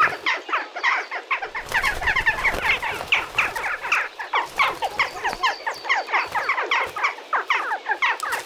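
Several jackdaws calling over one another in a squabble: a fast, unbroken stream of short harsh calls that fall in pitch.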